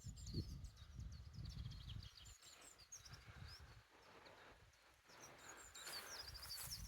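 Faint birdsong: several birds chirping and twittering in quick, high notes. A low, uneven rumble sits under them for the first two seconds, then fades.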